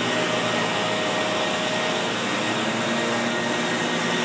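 Steady drone of a motor-driven machine running, an even rushing noise with a faint hum that shifts pitch slightly partway through.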